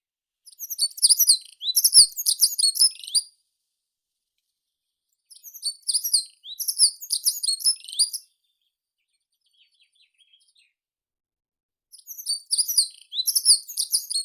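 A songbird singing three song phrases of rapid, varied high notes, each about three seconds long, with pauses of about two seconds between them.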